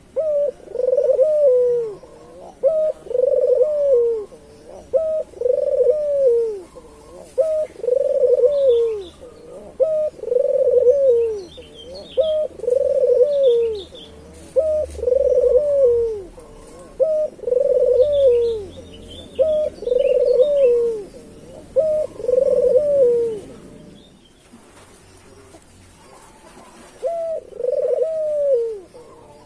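Local puter dove (Barbary dove) in full song, cooing over and over: about a dozen arched coos, each about a second long and roughly two seconds apart. They stop for about three seconds, then resume near the end. Faint chirps of small birds are heard in the background.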